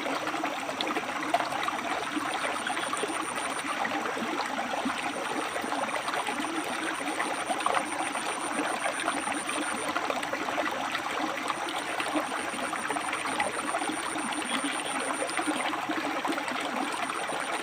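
River water flowing and splashing over rocks, a steady rushing babble. A thin, high, pulsing trill comes and goes in stretches of a few seconds above it.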